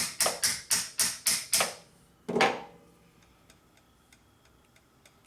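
A hammer tapping rapidly on a motorcycle part, about three or four blows a second, then one harder blow after a short pause before it stops. The part is being knocked to line it up where it sits slightly out of position.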